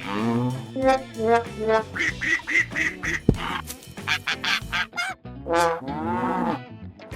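Cartoon duck-like quacking: a run of short, pitched calls, some gliding down in pitch, over background music.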